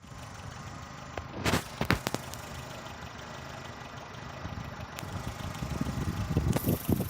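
Chevrolet Lacetti engine idling after an engine-bay wash, with a few sharp clicks about one and a half to two seconds in and another at five seconds. Water is sitting in the spark plug wells, and the owner says the engine is running a little rough (misfiring) because of it.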